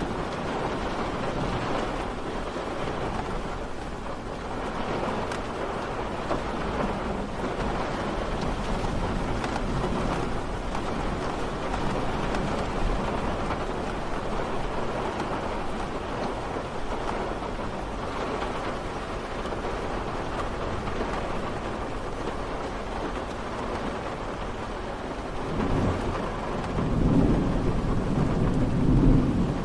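Steady rain falling, with a low rumble of thunder building near the end.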